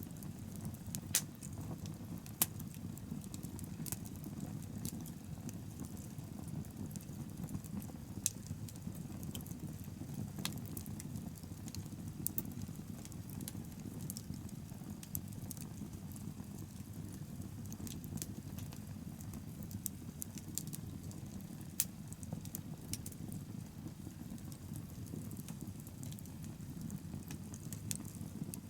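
Wood bonfire burning with a steady low rumble and irregular sharp crackles and pops from the burning wood.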